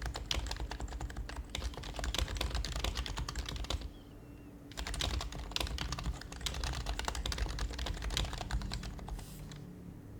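Typing on an HHKB Professional HYBRID Type-S keyboard with its silenced Topre keys: two fast runs of keystrokes with a pause of about a second in the middle, over a steady low hum.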